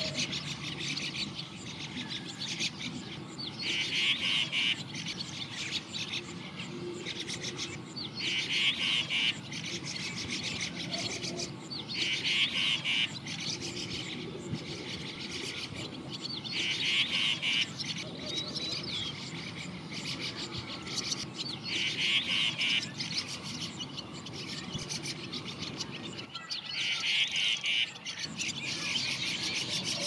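A bird calling: a short, fast trill about a second long, repeated six times at intervals of about four to five seconds.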